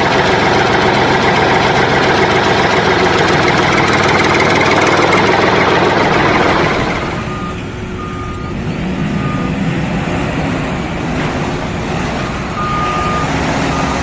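Loud engine-like running noise that drops away about seven seconds in. A reversing beeper then sounds in short, evenly pitched beeps: three in a row, and more near the end.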